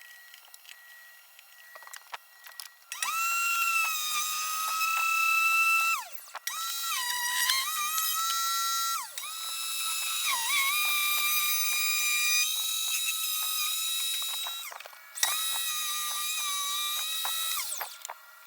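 Makita M585 190 mm circular saw motor in a homemade table saw, switched on and off four times: each run rises to a steady high whine and winds down. Inside the runs the pitch briefly dips and recovers, as under load.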